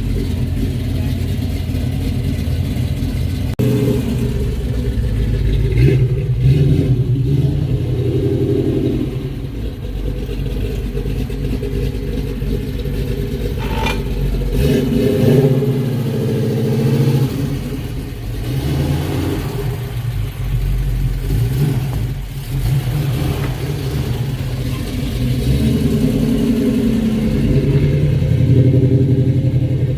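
Classic car engine running low and loud, its pitch rising and falling as it is revved and driven slowly.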